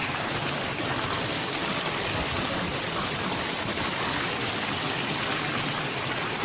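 Spring water gushing strongly where it rises out of the ground, a steady rushing flow.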